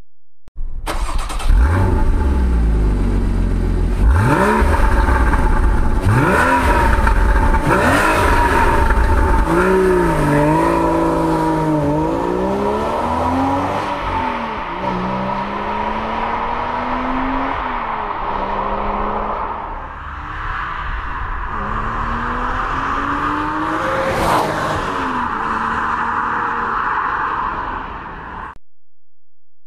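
Porsche Boxster S's 3.4-litre flat-six engine, revved in a few sharp blips, then accelerating through the gears, the pitch climbing and dropping back at each upshift. It cuts off shortly before the end.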